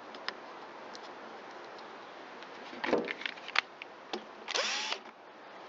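Handheld cordless power driver spinning briefly near the end, its pitch rising and then holding, with clicks and clatter of parts and tools beforehand.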